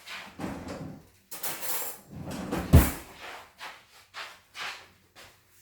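Kitchen drawer being opened and shut while a spoon is fetched, with cutlery rattling and a run of knocks and clatters. The loudest is a heavy knock about three seconds in.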